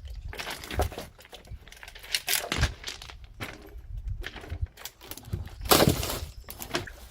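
Irregular knocks, cracks and rustling, with the loudest knock about six seconds in.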